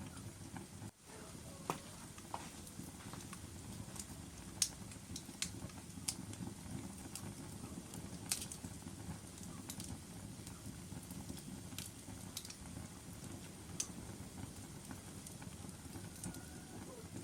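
Logs burning in a fireplace: a steady low rumble of the fire with sharp crackles and pops scattered every second or so, the loudest about four and a half seconds in. The sound dips out briefly about a second in.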